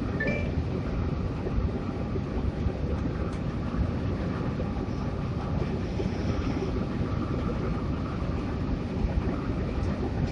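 Hino RK8 bus running at cruising speed: a steady low rumble of engine and road noise, with no change in pace.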